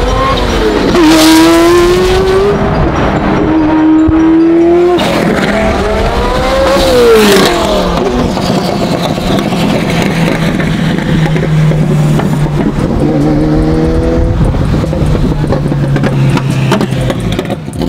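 Ferrari F40's twin-turbo V8 with a custom titanium exhaust accelerating hard from a standstill: the revs climb and drop sharply at each of several upshifts, then the engine settles into a steady cruise for the second half.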